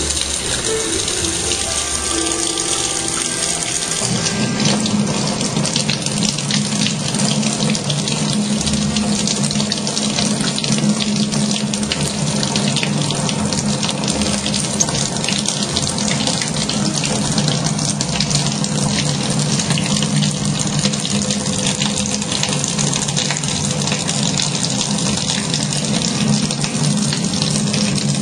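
Kitchen tap running in a steady thin stream into the sink.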